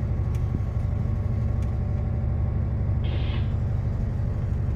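Steady low machinery drone and rumble of a tanker ship, heard from inside the wheelhouse, with a brief hiss about three seconds in.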